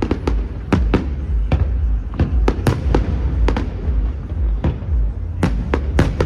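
Aerial fireworks bursting in rapid, irregular succession: about fifteen sharp bangs, sometimes two or three close together, over a constant low rumble.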